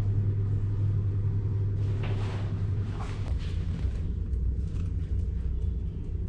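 Car engine running with a loud, steady low rumble that drops a little lower about three seconds in, with a few light knocks around two to three seconds in.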